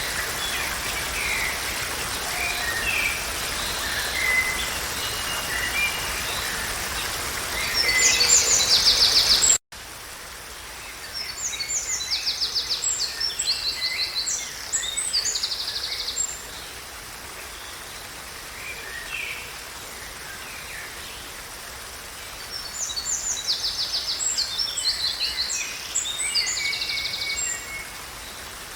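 Songbirds singing over a steady rushing noise of water or rain, with a loud trill just before an abrupt cut about ten seconds in. After the cut the background is quieter and birds sing repeated high trilled phrases, twice in bursts of a few seconds.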